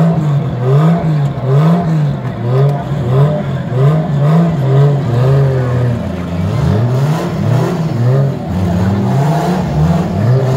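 Drift car engine revving hard, its pitch rising and falling about once a second as the throttle is worked through the slide.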